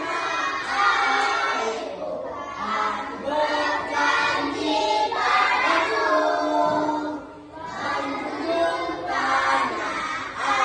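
A group of children singing together in unison, with held, wavering notes and a short breath about two-thirds of the way through.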